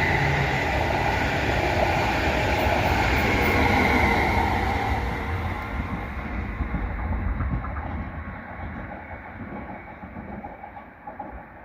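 Train running past on the rails, loud at first with a high whine over its wheel noise, then fading steadily as it moves away, the high sounds dropping out first.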